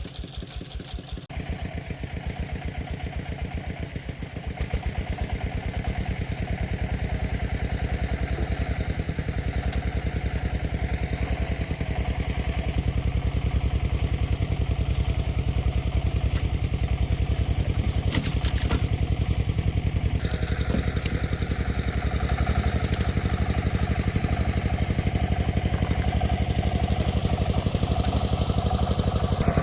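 Engine of an agricultural timber-hauling vehicle running with an even, low, pulsing beat. It picks up and grows louder over the first few seconds, then runs steadily.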